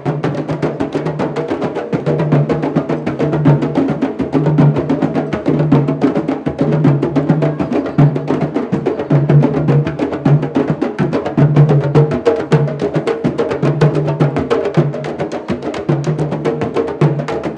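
Candombe drumming: a dense, fast stream of sharp stick-and-hand strokes on the drums over a deep pitched drum tone that recurs in short pulses.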